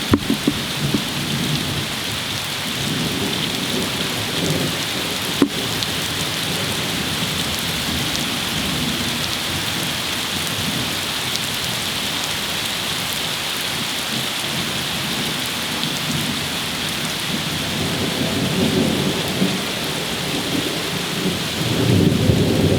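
Heavy rain pouring steadily in a summer thunderstorm, with a few sharp drips and taps. Low rolling thunder rumbles under the rain at the start, fades, and swells again near the end.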